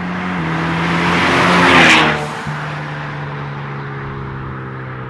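Ford Mustang EcoBoost's turbocharged four-cylinder, breathing through a Flowmaster Outlaw axle-back exhaust, driving past. The exhaust note grows louder up to about two seconds in as the car passes, then drops in pitch and fades.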